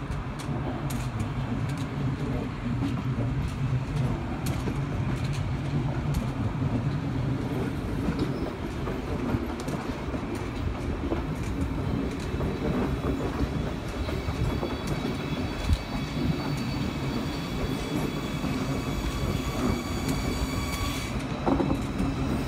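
Deutsche Bahn ICE 4 electric high-speed train passing close by: a steady rumble with scattered clicks and clatter of wheels over the rail joints. A high-pitched whine of several steady tones joins in about two-thirds of the way through and stops shortly before the end.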